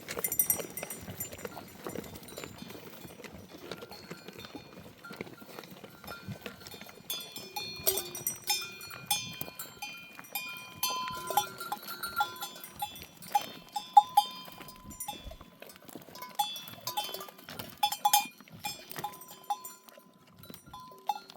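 Metal neck bells on a flock of sheep clinking and clanking irregularly as the animals move, with occasional short bleats.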